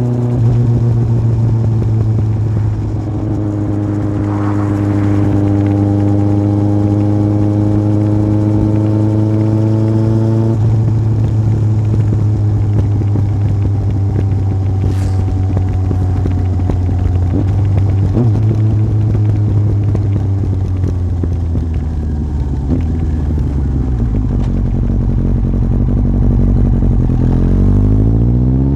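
Yamaha Fazer 1000's inline-four engine through a MIVV aftermarket exhaust, pulling at a steady engine speed while riding. From about ten seconds in, the pitch eases and slowly falls as the throttle comes off, and the engine revs up again near the end.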